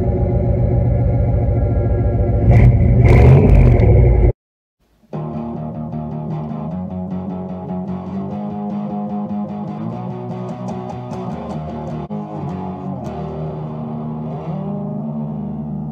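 A car engine running, revving up a little past two seconds in, then cut off abruptly about four seconds in; after a brief silence, guitar music with bass plays.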